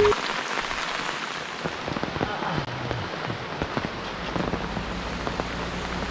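Steady rain falling on surfaces.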